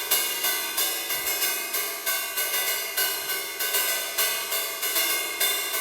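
Metal wire drum brushes striking a cymbal in a steady pattern of about four strokes a second, the cymbal ringing on between strokes.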